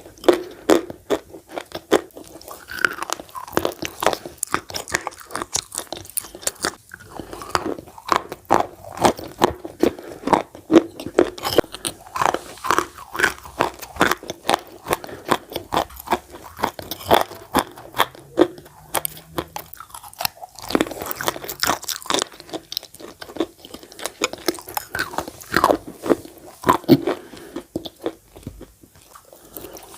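Crunchy chalk being bitten and chewed: a rapid, irregular run of crisp crunches.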